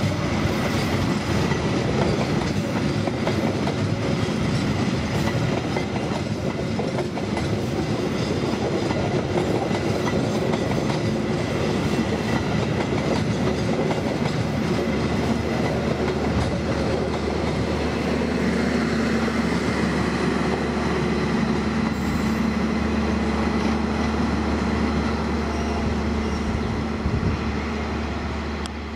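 KAI long-distance passenger train passing close by, coach after coach, its wheels rolling over the rails. A steady low hum joins about two-thirds of the way through, and the noise falls away near the end as the last car goes past.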